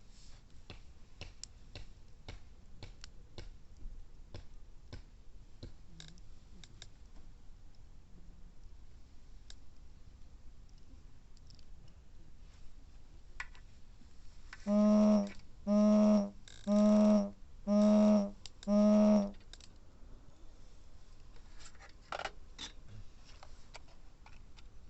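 Wood campfire crackling with scattered small pops. About two-thirds of the way in, five loud, evenly spaced pitched tones sound about once a second, then stop.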